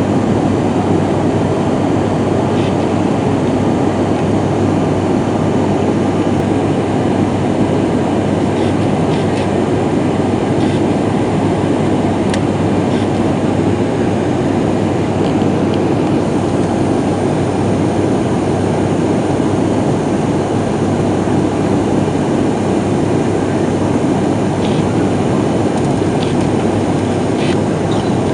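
Steady cabin drone of an ATR 72-500 turboprop airliner in flight: engine and propeller noise with a constant low hum, with a few faint clicks.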